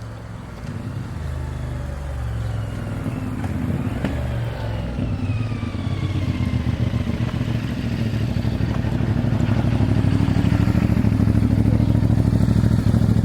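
Dual-sport motorcycle engine running, growing steadily louder.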